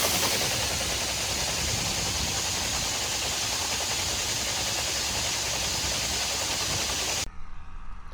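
Steady low engine rumble of a running tractor under a loud, even hiss; it cuts off abruptly about seven seconds in.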